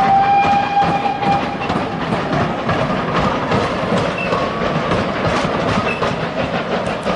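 Railway carriage running along the track, the wheels clicking over the rail joints, with a held tone in the first second and a half.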